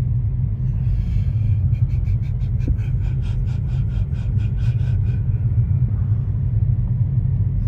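Steady low rumble of a car driving through deep snow, heard from inside the car. From about two seconds in, a quick run of ticks, about five a second, lasts for some three seconds.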